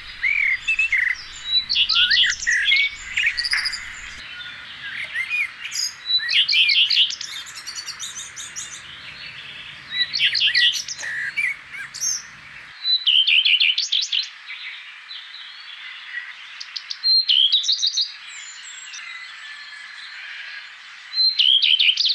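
Birds singing: short, fast trilled phrases every three to four seconds, with softer chirps between.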